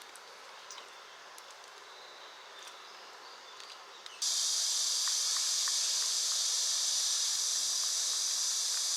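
Faint steady hiss of light rain with a few soft drip ticks, then about four seconds in a sudden cut to a loud, steady, high-pitched insect chorus.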